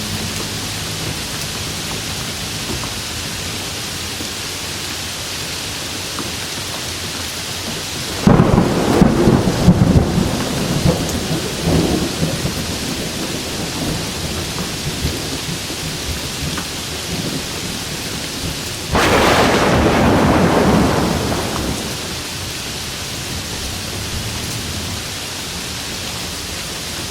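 Steady rain falling, with two claps of thunder: the first about a third of the way in, rumbling and fading over a few seconds, the second about two thirds in, a sudden loud rumble that dies away after a couple of seconds.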